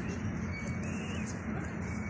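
Steady outdoor background noise with a bird chirping, a thin high call rising and falling around the middle.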